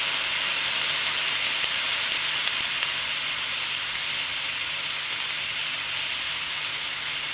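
Frozen beef burger patty sizzling steadily on a hot griddle, with scattered small crackles of spitting fat.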